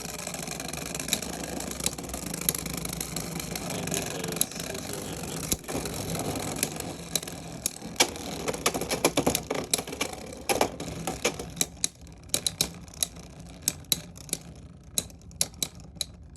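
Beyblade X spinning tops whirring in a plastic stadium. From about six seconds in comes a dense run of sharp clicks and clacks as the tops collide and hit the stadium, and it thins to scattered clicks near the end as the battle winds down.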